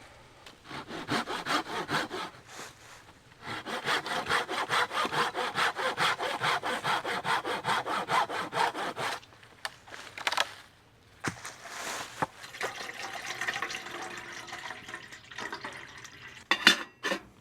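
Hand saw cutting through a dead wooden branch for firewood, in quick back-and-forth strokes about three a second. The sawing breaks off briefly about nine seconds in, then resumes with lighter strokes.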